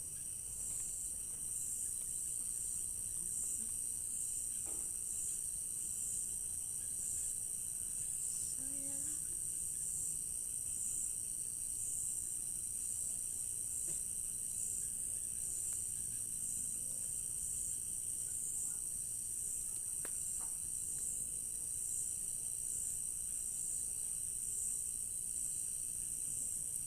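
Night chorus of crickets chirring: a steady, high-pitched drone with a slight even pulse. Faint distant voice fragments come through now and then.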